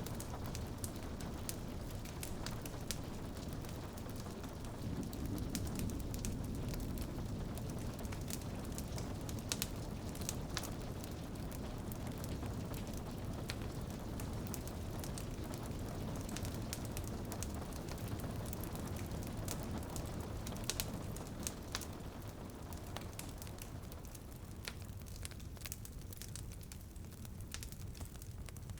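Rain falling on a window mixed with a crackling wood fire: a steady rumbling wash of rain, with frequent sharp pops and snaps from the burning logs scattered throughout.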